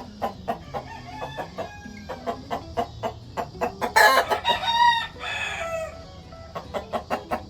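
Gamefowl chickens clucking in a quick, steady run of short clucks, with a rooster crowing loudly about four seconds in, followed by a shorter call.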